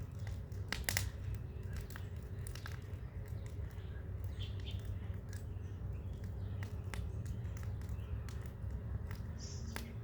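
Bonfire burning: a steady low rumble with scattered sharp crackling pops, the loudest few about a second in.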